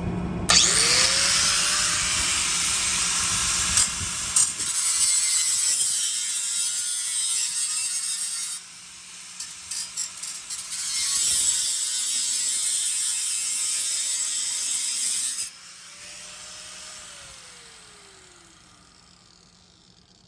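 A power tool cutting through a steel exhaust pipe. The motor winds up about half a second in, then gives a steady, harsh hiss of cutting that breaks into short stops and starts partway through. It cuts off abruptly near the end, and the motor's falling whine winds down after it.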